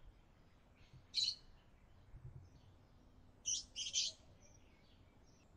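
Faint bird chirps, high and short: one chirp about a second in, then a quick few together around the middle.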